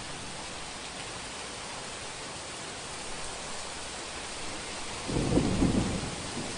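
Heavy rain falling as a steady hiss, with a clap of thunder breaking in about five seconds in: a sudden deep rumble lasting a second or two, the loudest thing here.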